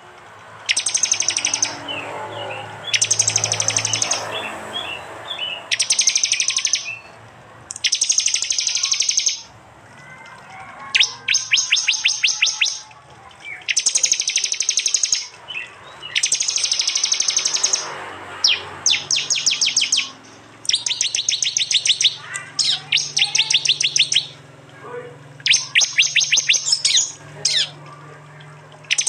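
Prinia (prenjak) giving its sharp 'tembakan' call: about a dozen bursts of rapid, evenly repeated sharp notes, each about a second long, with short pauses between them, over a faint low hum.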